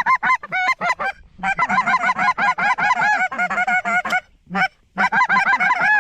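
Snow goose calls blown in rapid, high-pitched honks, several at once, calling a flying goose back around. Short breaks come about a second in and again near the five-second mark.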